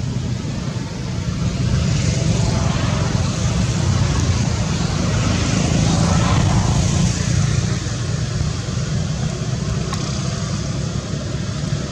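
Steady low rumble of road traffic, with a vehicle passing that grows louder for a few seconds and then fades.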